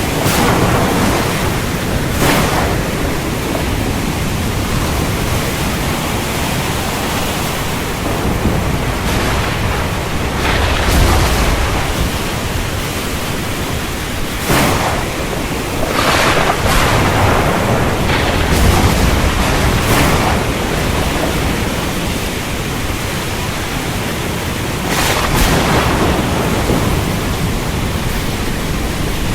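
Thunderstorm over the sea: a loud, steady rush of wind and water, broken several times by sharp cracks of thunder and low rumbles.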